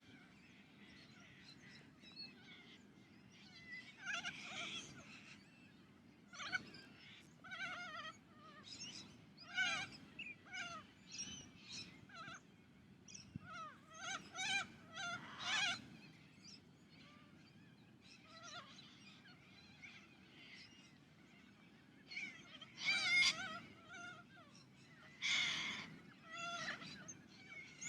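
Little corellas calling: a long run of short, pitched squawks and chattering calls, with a few louder screeches in the middle and near the end.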